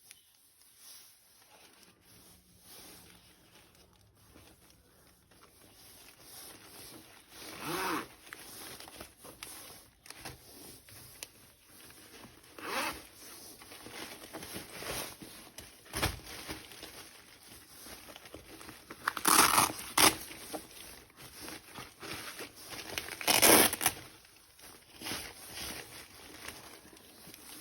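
Packaging being handled as toys are unpacked, rustling, crinkling and tearing irregularly. There are louder bursts about 8, 13, 19 and 23 seconds in.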